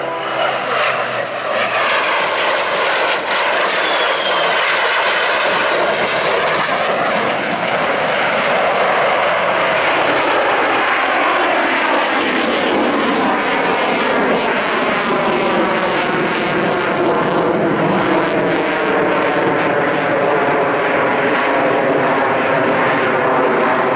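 Jet noise from the twin engines of a CF-18 Hornet flying a display. It is loud and sustained, building over the first couple of seconds, with a sweeping, shifting tone as the jet moves past.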